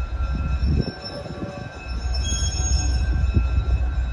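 Museum train rolling slowly into the platform during a car-length countdown: a heavy low rumble with faint steady high-pitched wheel squeal.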